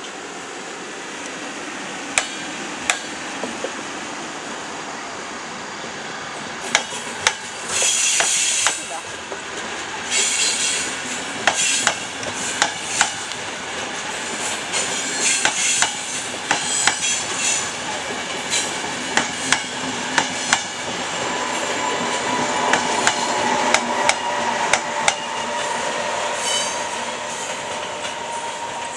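Train moving through a station, its wheels clicking over rail joints and points and squealing in bursts. A steady wheel squeal sets in during the last third.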